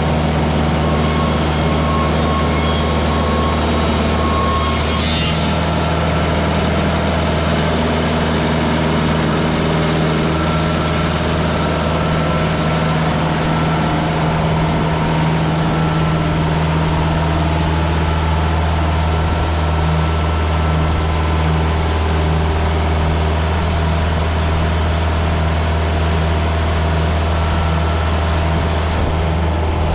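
TimberKing portable band sawmill running steadily, its engine under load as the band blade saws through a white cedar log.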